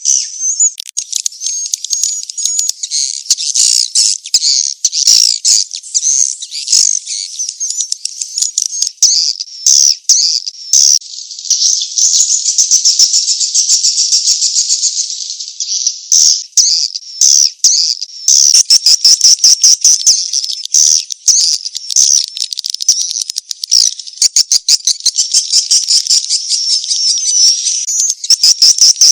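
Swiftlet lure call, the 'mating chase' version: dense, high-pitched twittering and rapid buzzy trills from many swiftlets, with stretches of fast ticking pulses. It is the kind of recording that swiftlet farmers play to draw swiftlets into a nesting house.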